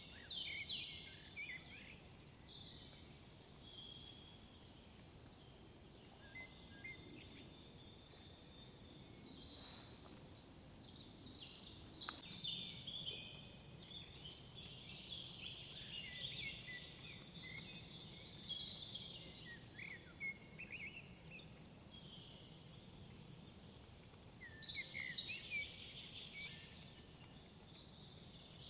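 Several songbirds singing in woodland: overlapping whistled phrases, trills and chirps that come in clusters, busiest about halfway through and again near the end, over a faint steady low background hiss.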